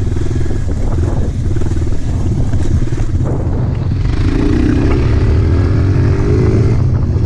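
Dirt bike engine running at low revs, then revving up about four seconds in, pitch climbing and held for a few seconds before dropping back near the end.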